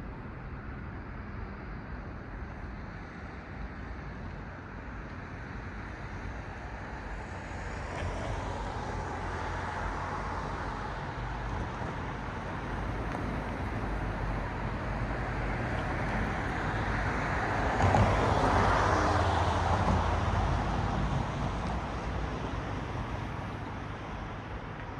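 Cars passing on a road: tyre and engine noise swells about a third of the way in, peaks with a close pass about two-thirds through, then fades back to a steady background of traffic.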